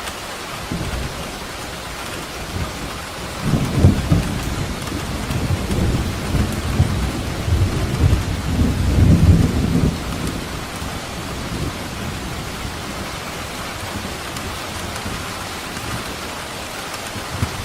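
Steady rain with a long roll of thunder that builds about three seconds in, rumbles loudly for several seconds and dies away about ten seconds in.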